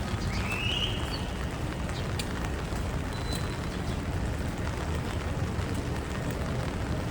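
Rainy Manhattan street ambience: a steady rumble of passing traffic under the hiss of rain and wet road, with a brief high squeal about half a second in.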